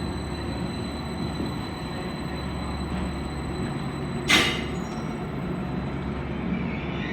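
Passenger train running at the station: a steady low rumble, with one sharp clank about four seconds in and a higher wheel squeal starting near the end.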